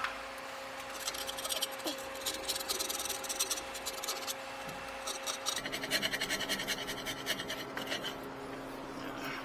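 Quick repeated scraping strokes, a scraper working old gasket material off the metal face of a float-and-thermostatic steam trap, in two runs with a short pause near the middle.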